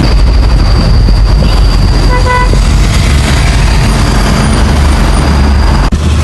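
Loud, steady low rumble with a thin high whine over it, and a short vehicle horn toot about two seconds in. The sound cuts off abruptly near the end.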